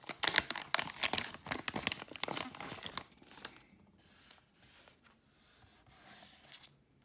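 A trading-card mystery pack's wrapper being torn open, with a burst of crinkling and tearing for about the first three seconds, then quieter rustling as the cards are handled.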